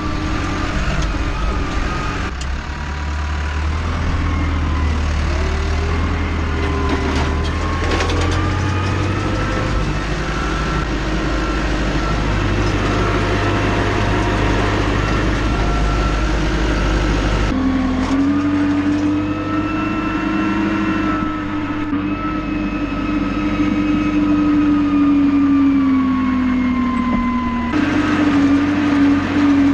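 Tractor engine running, its pitch drifting up and down as the revs change. The sound changes abruptly a few times, as if between separate shots of machinery working.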